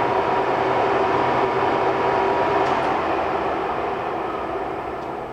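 Century sliding gap bed engine lathe running just after being switched on, its geared headstock and spindle making a steady mechanical hum with a faint whine, growing gradually quieter over the last couple of seconds.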